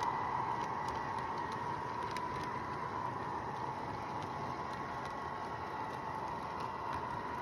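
MTH O gauge model train running on its track: a steady whine with a fainter higher tone above it, over a noisy rumble with light scattered clicks.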